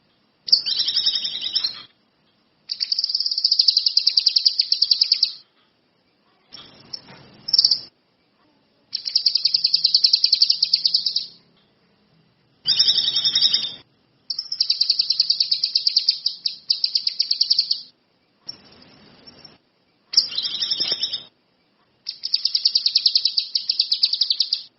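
Kinoi songbird singing in full voice: a string of high-pitched phrases of rapid buzzing trills, each one to three seconds long, with short breaks between them.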